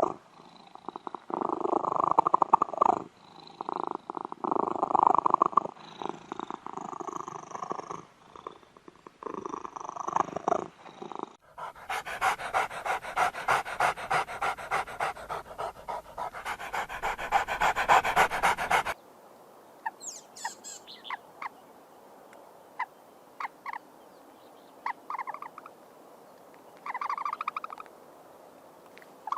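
Domestic animals vocalising and breathing in irregular bursts, then a fast, even panting-like pulsing for about seven seconds, then short, scattered bird calls from about twenty seconds in.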